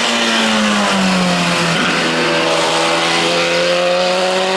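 Racing car engine held at high, steady revs, its pitch dipping during the first second and then holding, with a hiss over it.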